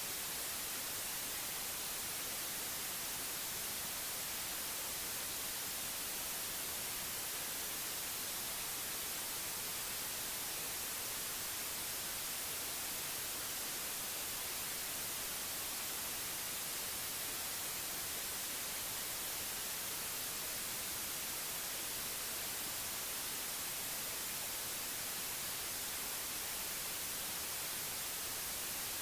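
Synthetic white noise: a steady, even hiss, brightest in the high end, without any change.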